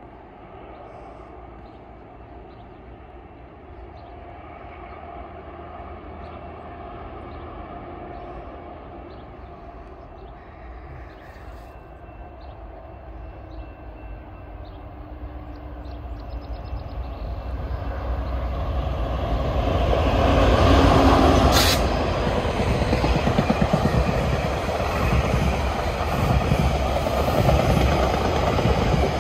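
GO Transit commuter train, a diesel locomotive with bilevel coaches, approaching and passing. Its low rumble builds over the first two-thirds, peaks as the head end goes by with a brief sharp high noise, then stays loud and steady as the coaches roll past.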